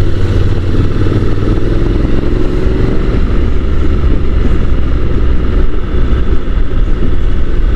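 Honda NC750 motorcycle being ridden along, its parallel-twin engine running steadily under a loud rush of wind noise.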